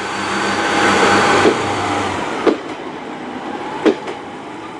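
Class 143 Pacer diesel multiple unit pulling away under power, its diesel engine note steady and loud and then dropping away about two seconds in. Two sharp clicks follow in the quieter second half.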